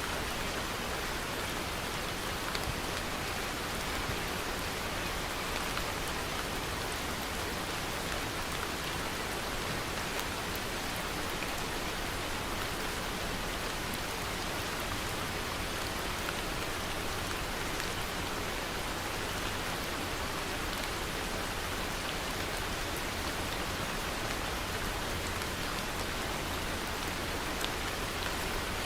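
Steady rain falling, a constant even hiss with scattered individual drops ticking on a surface.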